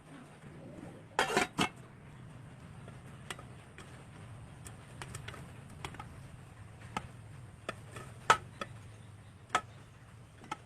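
Kitchen utensils clinking and tapping lightly, with a short scraping rustle about a second in.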